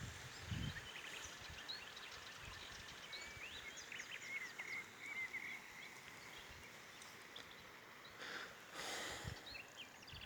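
Faint birdsong outdoors: several small birds chirping and twittering in quick high notes, most busily in the first half, with a short rush of noise like a gust of wind about eight seconds in.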